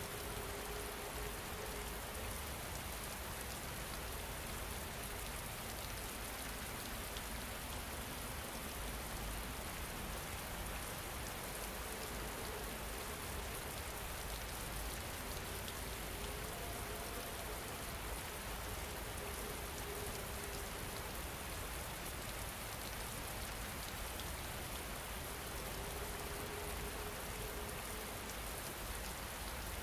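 Steady rain falling, an even unbroken patter. A faint soft tone comes and goes a few times beneath it.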